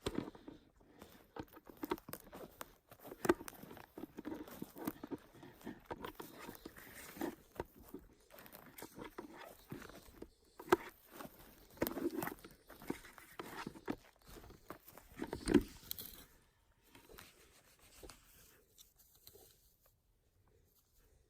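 Irregular crunching, crackling and rustling of dry forest-floor debris and undergrowth, with sharp snaps scattered through; it thins out about three-quarters of the way in.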